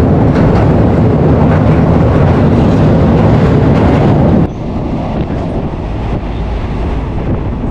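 Passenger train running: a loud, steady rumble of wheels on rails and carriage noise inside a fan-cooled, non-air-conditioned second-class carriage. A little over halfway through, the noise drops suddenly to a lower steady rumble.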